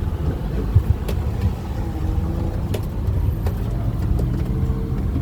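Motor vehicle running: a steady low engine and road rumble, with a few faint clicks.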